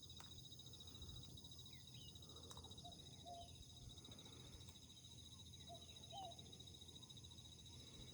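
A faint, steady, high-pitched insect trill, with short chirping calls scattered through it.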